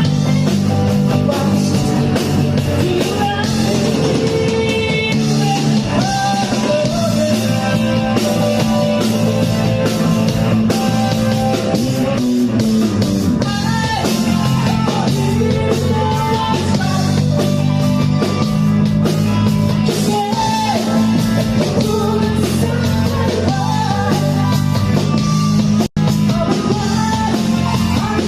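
Rock music: a singing voice over drum kit and electric guitar, playing loudly and without a break, with a split-second dropout in the sound near the end.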